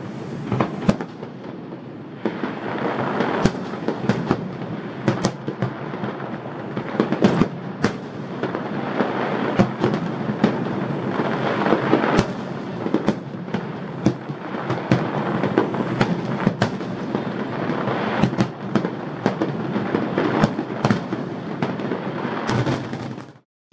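Fireworks display: a continuous rumble of aerial shell bursts and crackle, with many sharp bangs in quick succession. It cuts off suddenly near the end.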